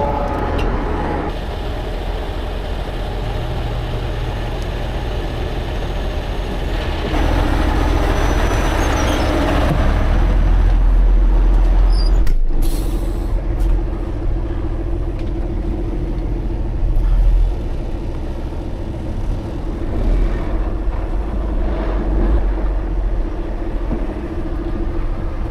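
Heavy truck engine running steadily, a low rumble with a short break about twelve seconds in.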